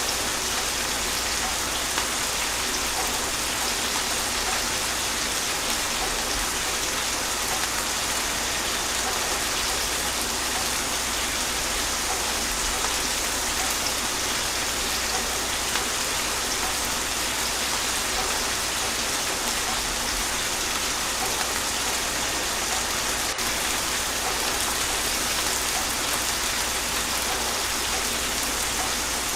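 Steady gentle rain falling on a surface, an even hiss of drops with no thunder.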